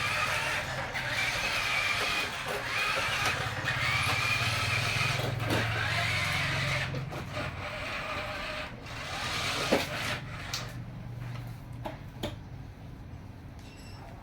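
Electric motor and gearbox of an RC construction toy running with a wavering whine and a low hum, stopping about ten seconds in, followed by a few scattered clicks and knocks.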